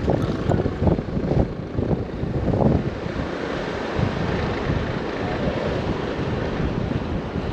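Wind buffeting the microphone during a moped ride: an uneven, gusty rumble with the rush of air and road over it.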